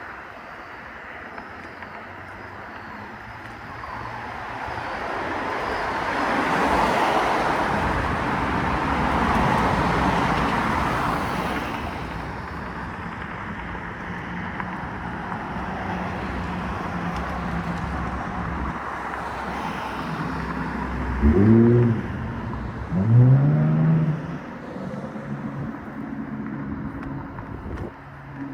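Road traffic: a vehicle passing, its noise swelling and fading over several seconds, then a steady low engine hum. Near the end come two short, loud sounds close together, each rising in pitch.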